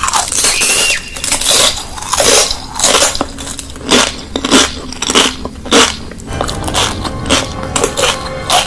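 A person biting and chewing crunchy food, with loud, crisp crunches coming irregularly about every half second.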